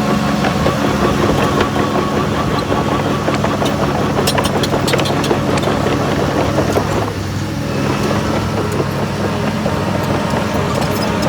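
Heavy earthmoving machine's diesel engine running steadily, with a brief drop in level about seven seconds in. Sharp metallic clicks and clanks are scattered over it, thickest about four to five seconds in.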